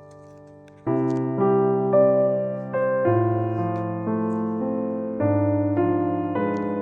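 Background piano music: quiet at first, then a run of gently decaying piano chords and notes begins about a second in and carries on.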